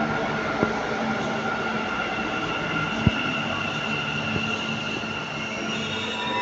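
Namma Metro train moving through the station: a steady loud rumble with a high whine over it and a few clicks from the wheels. There is one sharp knock about three seconds in.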